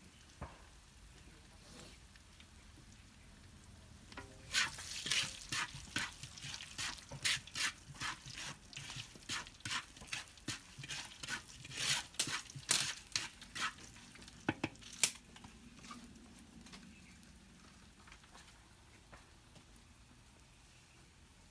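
Cooking utensil stirring food in a pot or pan: a run of irregular scraping strokes, about two a second, starting about four seconds in and stopping about fifteen seconds in.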